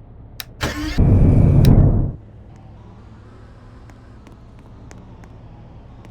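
Car engine starting: a short crank, then the engine catches with a loud flare of revs lasting about a second and drops to a low, steady idle.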